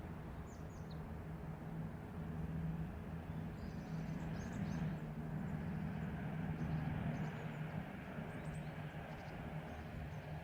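City morning ambience: a steady rumble of traffic with a low hum, and scattered faint high chirps of birds.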